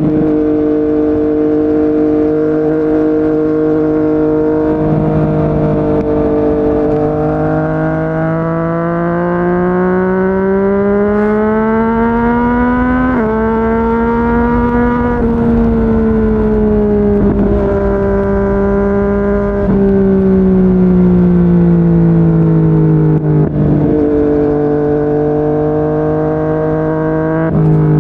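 Yamaha MT-09's inline-three engine through a Yoshimura R55 slip-on exhaust, running at steady cruise on the road. Its note climbs slowly, breaks briefly about halfway through, then sinks back gradually. It breaks once more near the end before holding steady.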